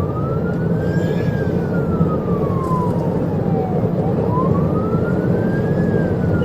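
Police siren on its wail setting, a single tone slowly rising and falling about twice, over the loud steady engine and road noise of a patrol car at high speed.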